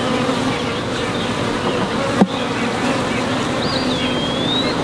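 Honey bees buzzing densely around an open hive, a steady hum. One sharp click or knock about two seconds in, and a brief whistled tone near the end.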